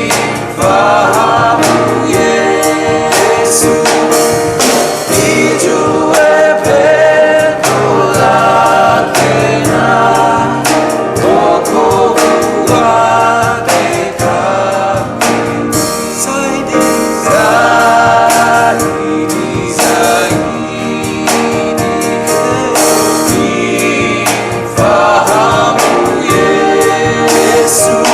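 A live gospel worship song: a choir singing over instrumental accompaniment with a steady beat.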